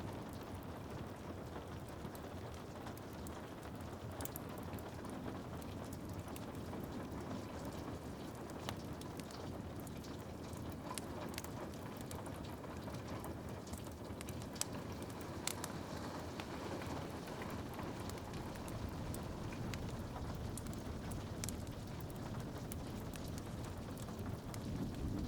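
Steady rain hiss and patter with scattered sharp crackles and pops from a wood fire in a fireplace, the sharpest snap about halfway through.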